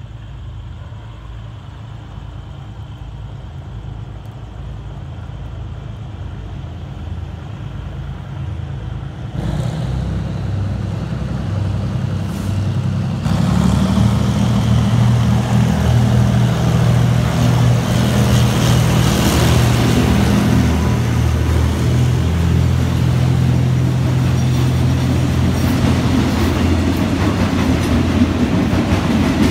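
Diesel locomotive of a freight train approaching and passing. Its engine rumble builds steadily, jumps louder about nine and thirteen seconds in as it comes close, and then holds a loud, steady hum while the loaded wagons start rolling by near the end.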